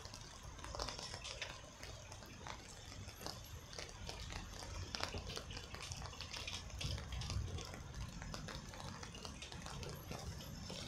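Rain falling and water dripping: a soft hiss with scattered small ticks of drops.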